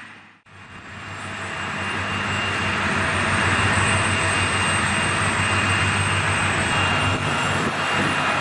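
A heavy vehicle's engine running steadily, with a low hum under a broad rushing noise; it fades in after a brief cut to silence about half a second in.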